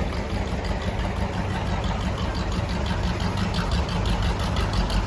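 An engine idling steadily with a regular fast beat, growing a little louder near the end.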